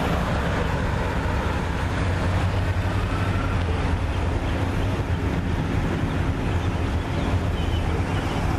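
A motor vehicle's engine running steadily at low revs, a constant low-pitched hum with no revving.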